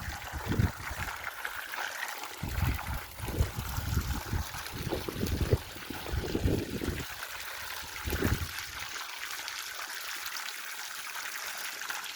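Water gushing steadily from an irrigation pipe and running along a furrow, with gusts of wind buffeting the microphone through the first nine seconds or so.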